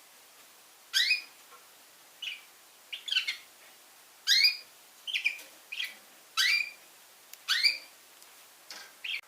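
Young red factor canary calling: about nine short chirps, roughly one a second, each sweeping quickly in pitch, starting about a second in.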